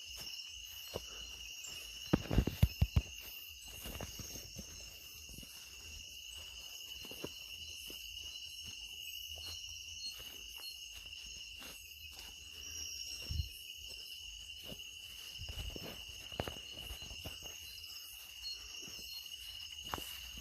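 Night insect chorus in a tropical rainforest: a steady, high-pitched trilling that holds one pitch, with fainter higher trills above it. A few sharp knocks come about two seconds in, and light clicks are scattered through.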